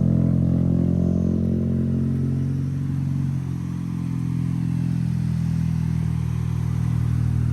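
Car engine running steadily with a low, even drone, dipping slightly in loudness partway through and then building back.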